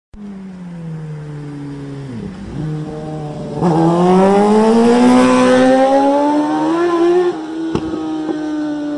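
Motorcycle engine accelerating. About three and a half seconds in it gets much louder and its note climbs steadily. A little after seven seconds the level drops suddenly while the note holds and slowly falls.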